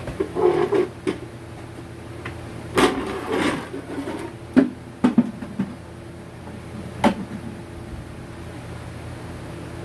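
A few short knocks and handling clatters over a steady mechanical hum, the loudest knock about four and a half seconds in.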